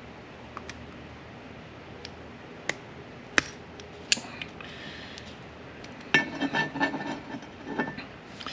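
Metal parts of an M5R1/M5R2 shift tower clicking and clinking as they are worked into the housing: a few separate sharp clicks, then, about six seconds in, a couple of seconds of rattling metal-on-metal clatter with a brief ringing tone.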